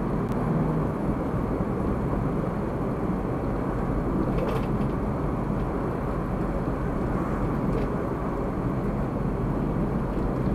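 Steady road and engine noise of a car driving, picked up by a dashcam, with a couple of faint clicks partway through.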